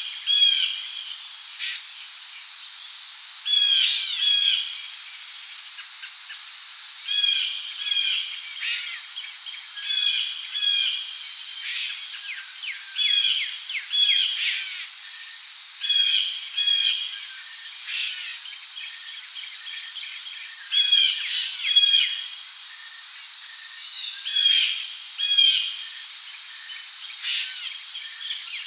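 Rainforest ambience: a steady high insect drone of crickets, with short bird chirps repeating every second or two, often in quick pairs.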